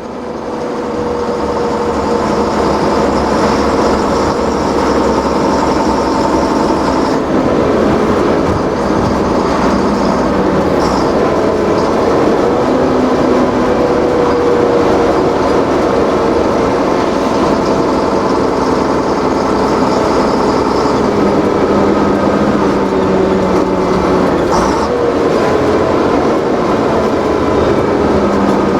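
Engines of vintage lorries running continuously, several engine notes overlapping and slowly shifting in pitch.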